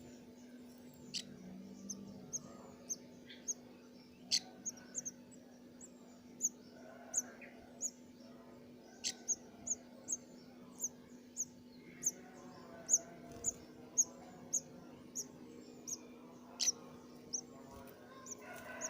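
Nestling birds giving short, very high chirps, about one or two a second, over a faint steady low hum.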